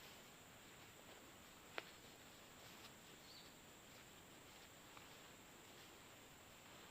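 Near silence: faint outdoor background with a steady high insect drone, one sharp click about two seconds in and a brief faint high chirp a little after three seconds.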